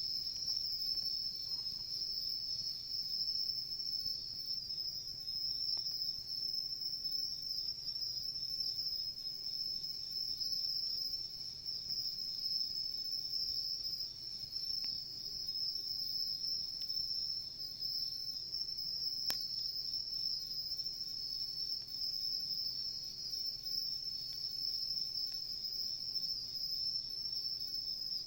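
Night insects, crickets or similar, calling in a continuous high-pitched chorus that stays steady throughout. A single sharp pop from the campfire comes about two-thirds of the way through.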